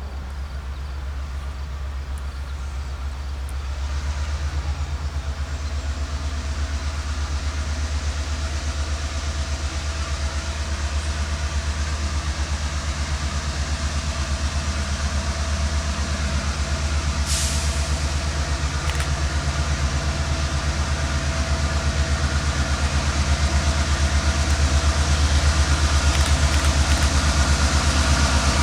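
Diesel freight locomotive engine running with a steady low drone, growing gradually louder as the train approaches. There is a brief hiss about two thirds of the way through.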